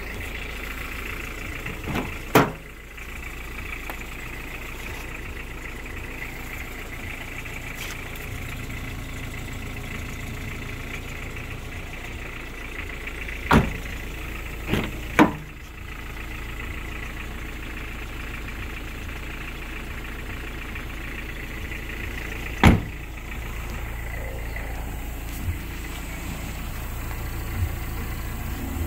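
Toyota Camry 2.0 turbo diesel engine idling steadily, with several sharp thumps over it: one early, a cluster of three about halfway through and one more later.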